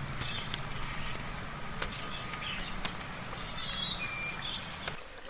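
Soft rain falling, with scattered sharp drips, while birds give short chirps and a brief whistled note. A low steady hum underlies it and stops abruptly near the end.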